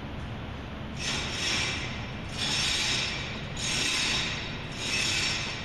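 Large commercial overhead sectional door travelling on its tracks under a steady low hum. Four hissing, scraping swells of about a second each come from the door hardware as it moves.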